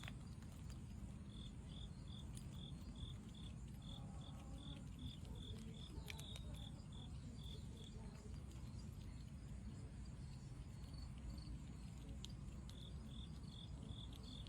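Faint cricket chirping: short, evenly spaced chirps at one high pitch, about two to three a second, that stop for a few seconds midway and resume near the end, over a low steady rumble.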